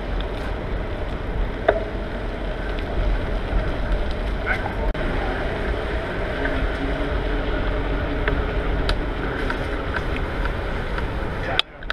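Steady rumbling road and wind noise from a bicycle ride through city streets, with a few light clicks. The sound drops out suddenly for a moment near the end.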